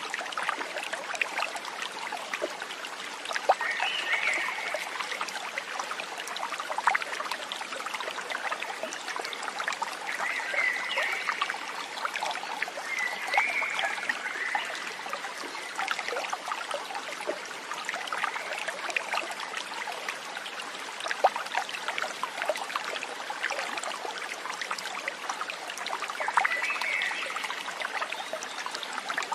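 Water trickling and babbling steadily in a stream. Short animal calls come in every few seconds over it.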